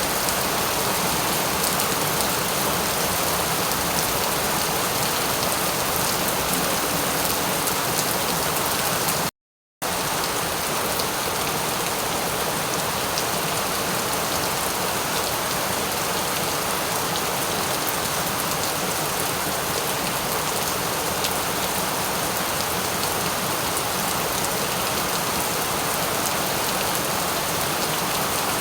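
Steady, even rain falling without a break, except for a sudden drop to silence of about half a second some nine seconds in, after which the rain resumes unchanged.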